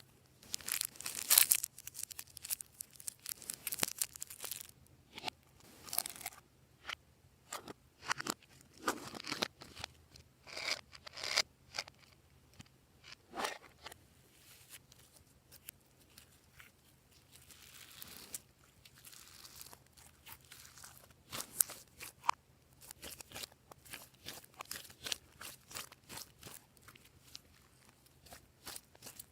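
Glossy slime being squished and stretched by hand: irregular sticky crackles and crunchy clicks in uneven clusters, sparser for a while about halfway through.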